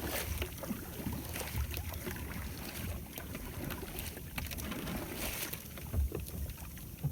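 Wind and water noise aboard a small fishing boat at sea, with scattered small clicks and knocks from handling on deck.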